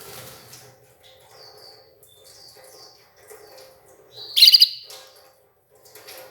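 Red ivory canary chirping in short, high calls, with one much louder call about four and a half seconds in.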